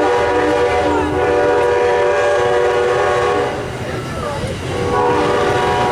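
Amtrak GE P42 diesel locomotive's multi-chime horn sounding a long blast, breaking off about three and a half seconds in, then a second blast starting about a second later, over the low rumble of the passing train. The horn is sounded as a grade-crossing warning.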